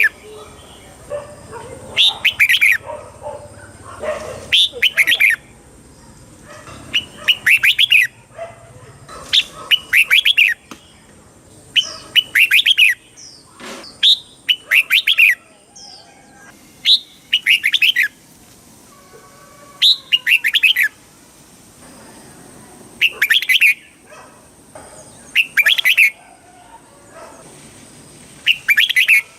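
Red-whiskered bulbul singing: short, bright warbled phrases repeated every two to three seconds, about a dozen in all.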